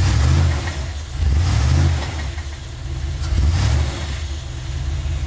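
A 4x4's engine running low and steady, revved up in three short bursts: at the start, about a second and a half in, and about three and a half seconds in.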